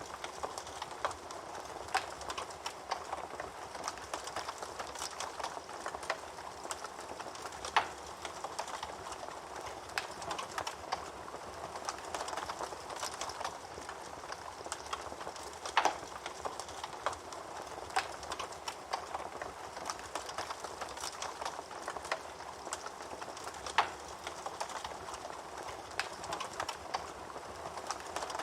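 Wood fire burning in a fireplace: a steady soft hiss with constant small crackles and a few louder, sharper pops at irregular intervals.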